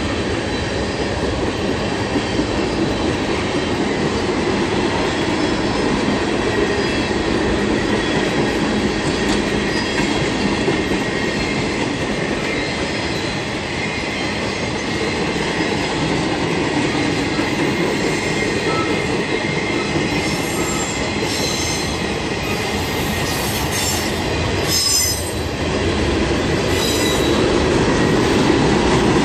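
A train rolling past with a steady, continuous rumble of wheels on rail. In the second half, high-pitched wheel squeals come and go.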